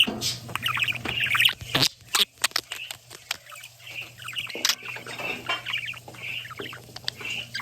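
Pet birds chattering, with repeated short squawks and chirps, and a few sharp clicks about two seconds in.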